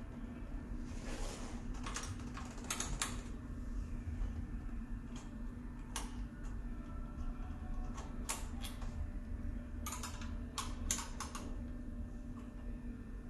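Scattered light clicks and taps of tools and small bike parts being handled, coming in short clusters, over a steady low hum.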